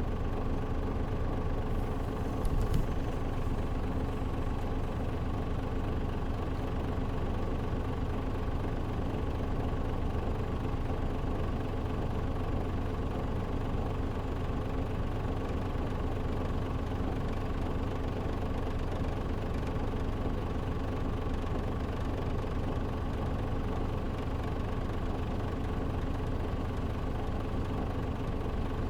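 Cabin sound of a Mitsubishi Fuso Aero Star KL-MP37JM city bus under way: a steady diesel engine drone with level, unchanging tones, free of air-conditioner noise since the A/C is off. A brief rattle sounds about two and a half seconds in.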